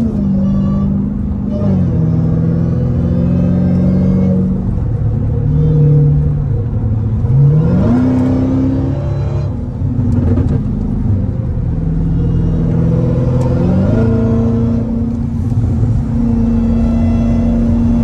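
Dodge Hellcat's supercharged 6.2-litre Hemi V8 running under way in traffic. Its pitch drops about two seconds in, then rises steeply as it revs up twice, around halfway and again near the end.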